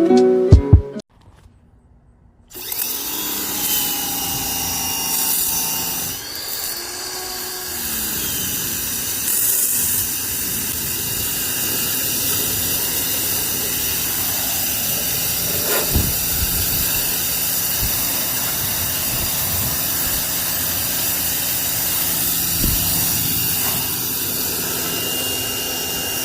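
Electric pressure washer running and spraying, a steady hiss of water with the motor and pump humming under it, starting about two and a half seconds in after a brief silence.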